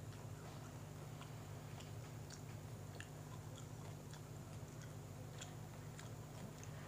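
A person chewing a mouthful of sandwich, with faint soft mouth clicks and smacks scattered throughout, over a steady low hum.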